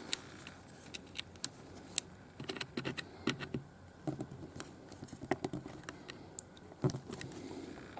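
Irregular small clicks and taps of hands handling laptop screen parts and plastic cable connectors, with one louder knock near the end.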